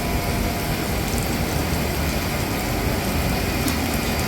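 Steady hiss of rain over a low, steady rumble of running machinery.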